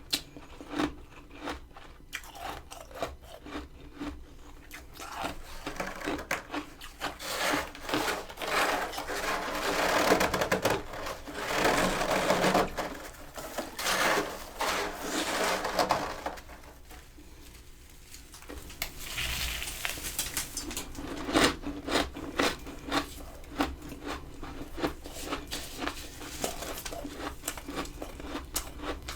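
Powdery freezer frost crunching and scraping: many crisp clicks, with a long stretch of dense scraping about a fifth of the way in and a shorter one past the middle.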